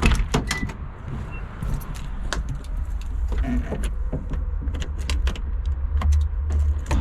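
John Deere 60G compact excavator's diesel engine idling steadily, left running to warm up, with scattered clicks and knocks over it.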